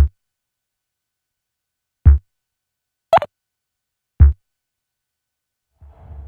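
Eurorack synthesizer sending short, dry percussive blips: three low thumps and one higher, clicky blip, widely spaced with silence between. Near the end a hazy wash of sound fades in.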